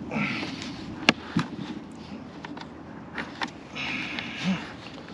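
Knocks and scraping from a wooden door frame being handled and shifted into place: two sharp knocks about a second in, and short rubbing scrapes at the start and again about four seconds in.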